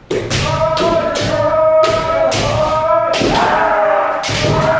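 Kendo practice: long drawn-out kiai shouts from several voices, over a quick run of sharp cracks from bamboo shinai striking armour and feet stamping in on the strikes. A second kiai starts a little past three seconds in.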